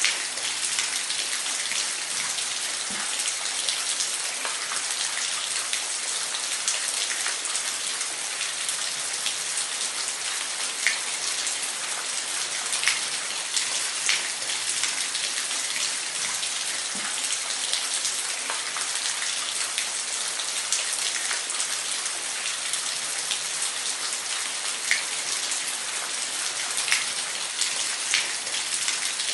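Waterfall: a steady hiss of falling water with scattered sharper splashes of drops.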